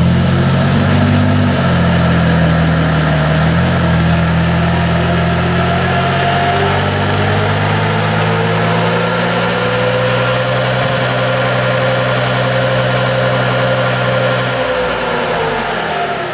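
Jeep Wrangler's V6 running hard on a chassis dyno, loud and steady, with a whine above it that climbs slowly. Near the end the engine note drops away and the whine falls off as the rollers coast down.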